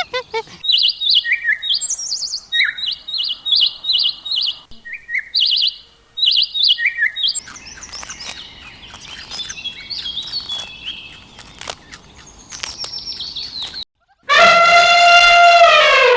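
Small birds chirping in quick, repeated high calls, then a busier overlapping chorus of chirps. Near the end, after a brief break, a rooster crows loudly in one long call that falls in pitch.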